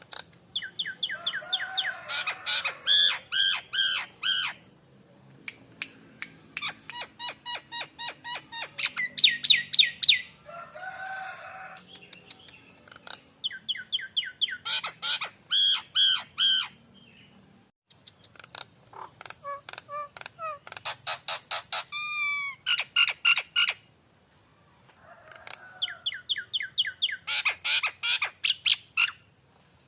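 A jalak nias (Nias starling) singing: phrases of rapid, repeated sharp chattering notes a few seconds long, broken by short pauses. This is a bird-keepers' prompting song, played to set a caged bird singing.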